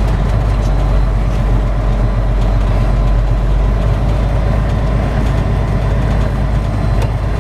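Flatbed semi truck's diesel engine running steadily at low speed, a constant low drone.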